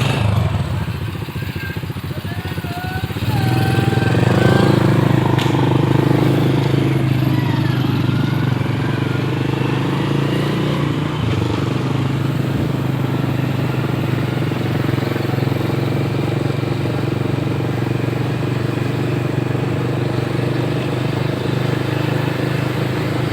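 Motorcycle engine running under way, picking up about three seconds in and then holding a steady pace.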